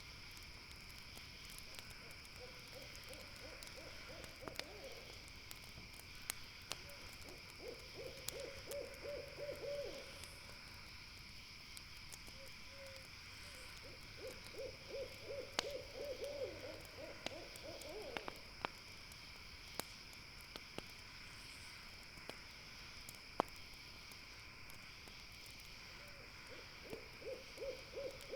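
An owl calling in four runs of quick, evenly spaced low hoots, a few seconds apart. Underneath is a steady high trilling of night insects and sparse crackles from a campfire.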